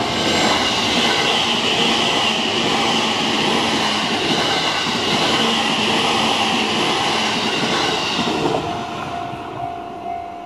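A JR Chuo Line limited express electric train passing close by. Its wheels and running gear make a loud rushing that holds for about eight seconds, then fades as the last car goes. A level-crossing warning bell rings on, covered by the train and heard again as steady repeating rings near the end.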